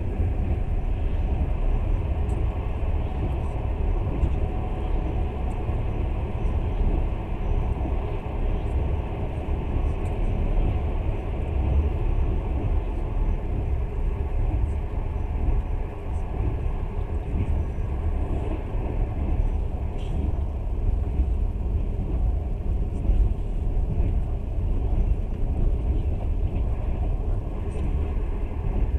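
Passenger train running along the line, a steady low rumble of wheels on rails heard from inside the carriage.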